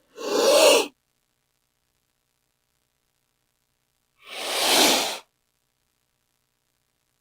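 King cobra hissing: two breathy hisses, each about a second long, one at the start and another about four seconds in.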